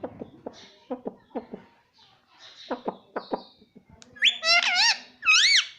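Pet ringneck parrot chattering in short clipped notes, then giving two loud warbling calls near the end.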